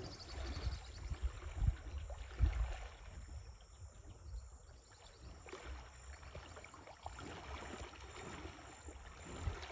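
Water sloshing and splashing as a cow wades through shallow river water, with low thuds about one and a half and two and a half seconds in.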